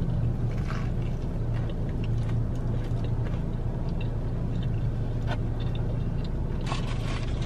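Steady low rumble of a car's engine idling, heard from inside the cabin. Over it come small crunches and mouth clicks of chewing a crispy breaded chicken sandwich.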